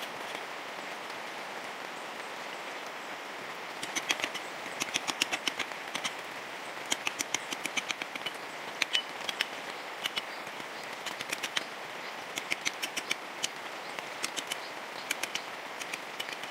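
Steady hiss of rain, with clusters of sharp, rapid clicks or taps from about four seconds in, several a second.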